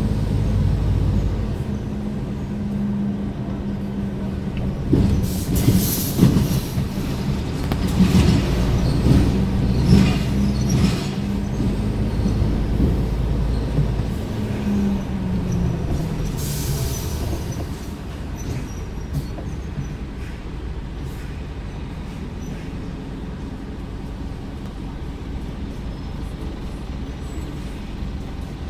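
Scania R410 tractor unit's diesel engine running on the move, with a run of knocks and rattles in the first half. About halfway through, the engine note falls away and a quieter steady rumble remains.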